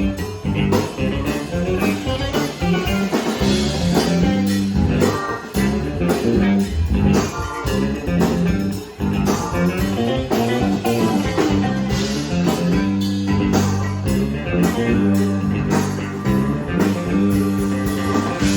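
A band playing blues-rock: guitar over a low bass line and drums keeping a steady beat.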